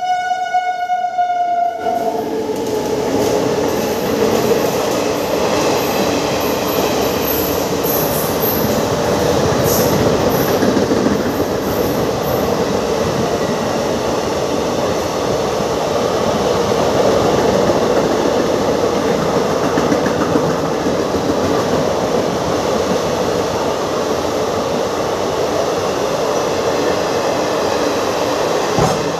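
A train horn sounds for about two seconds and cuts off. Then a fast train passes through the station without stopping, with the steady, loud rush and rattle of its coaches running past along the platform.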